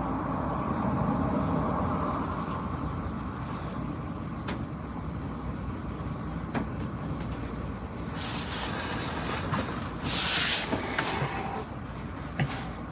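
Parked truck's engine idling steadily, heard from inside the cab, with a few light clicks and a loud burst of hiss about ten seconds in.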